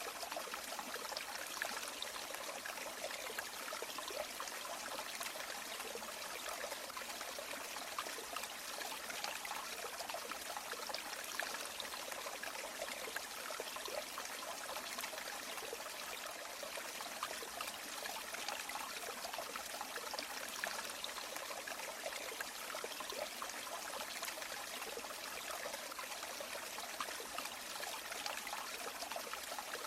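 A river or stream flowing steadily, water trickling and splashing over rocks in a constant rushing hiss.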